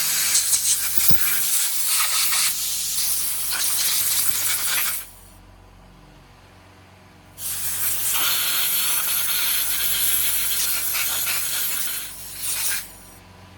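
Compressed-air blow gun hissing as it blows air through the small holes and ports of a Yamaha YZF1000 Thunderace carburettor body. There are two long blasts of about five seconds each and a short burst near the end. How the hiss sounds tells whether a passage is blocked or clear.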